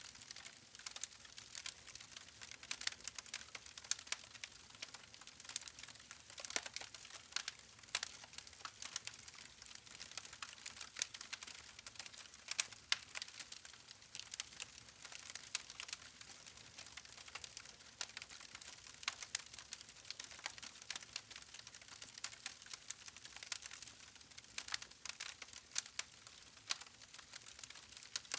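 Wood fire crackling: a steady stream of irregular sharp pops and snaps over a faint hiss of burning logs.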